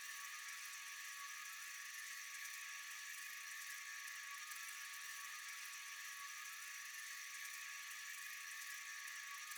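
Steady chorus of night-singing insects: a dense, high, hissing buzz with a thin steady tone beneath it.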